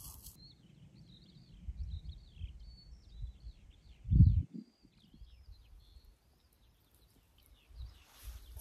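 A songbird singing a long unbroken run of high chirping, warbling notes over a low wind rumble on the microphone. A brief loud low thump comes about four seconds in.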